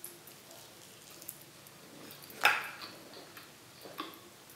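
Quiet chewing of a mouthful of pizza, with a few short, sharp mouth clicks; the loudest comes about two and a half seconds in, another near four seconds.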